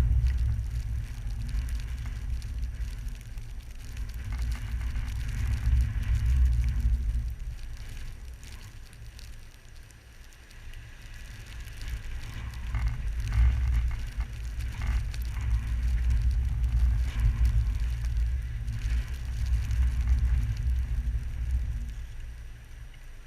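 Blizzard wind gusting against the microphone: a low rumble that surges and eases, dropping off for a few seconds near the middle, then building again and falling away near the end.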